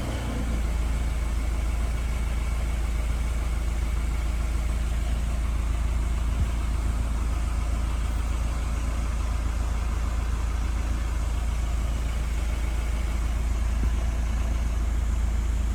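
Car engine idling steadily, a low even hum with no change in pitch.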